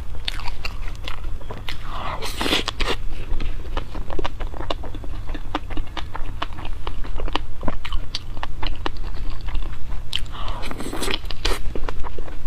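Close-miked eating: wet chewing and biting with many small clicks, and two louder crunchy bites, one about two seconds in and one near the end, over a steady low hum.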